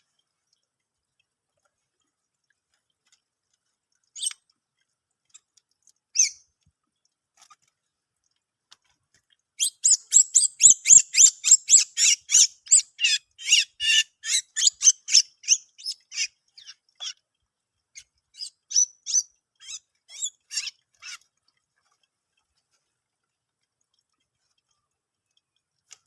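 A bird calling: two single high notes, then a fast run of sharp chirps at about three a second for some seven seconds, thinning into scattered notes.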